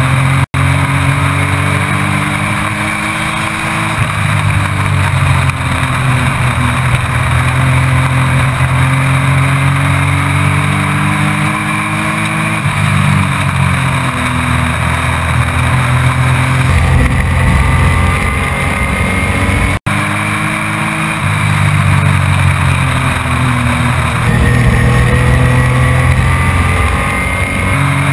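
ARCA Truck Series race truck's engine at racing speed, heard from an onboard camera: the revs climb and fall again and again as the truck accelerates and lifts off around the oval. The sound cuts out for a split second twice.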